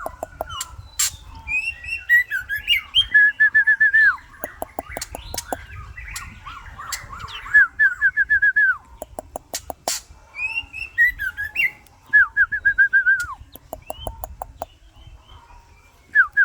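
White-rumped shama singing: phrases of quick repeated whistled notes broken up by fast runs of dry clicks, with short pauses between phrases.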